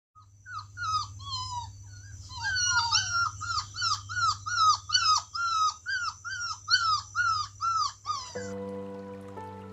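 Puppies whining and whimpering: a rapid run of high cries that fall in pitch, about two a second and overlapping at times. Near the end the cries stop and steady held music notes take over.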